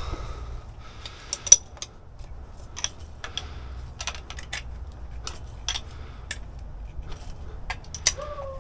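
Irregular light clicks and clinks from small metal hardware and hand tools being handled, a few a second, with a short falling tone near the end.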